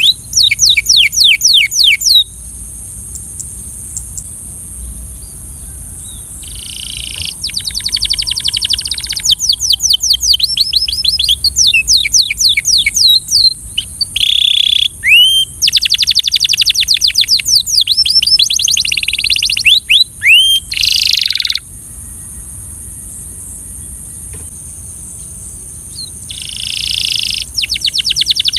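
Belgian canary singing in bursts of fast trills made of rapidly repeated falling notes, with pauses of a few seconds between phrases. A steady high hiss runs underneath.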